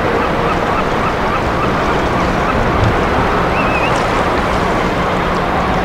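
Steady wind and surf noise at the harbour entrance, with short repeated bird chirps and one brief wavering whistle about four seconds in.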